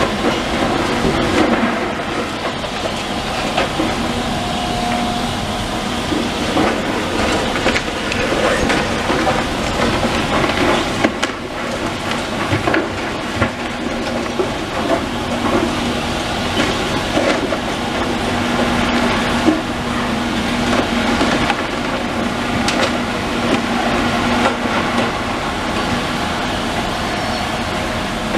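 Heavy demolition machinery at work: an engine running steadily under frequent irregular knocks and clattering.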